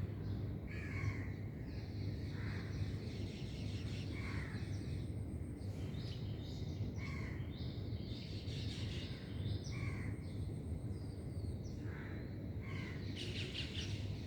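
Crows cawing, single calls coming every two to three seconds, over a steady low hum.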